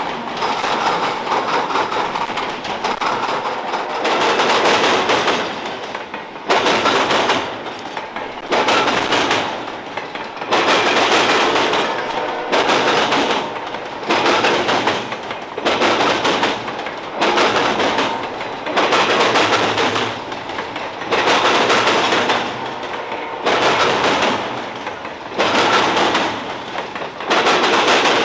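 Freight train cars rolling past, their wheels clattering and banging in a regular rhythm about every one and a half seconds as each car's wheel sets cross the rail joints.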